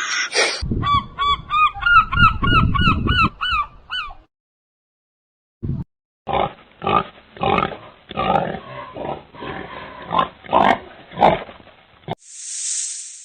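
Animal calls in separate short clips: a run of repeated high squeaky calls over low grunting, then a series of rhythmic pulsed calls, and a brief hiss near the end.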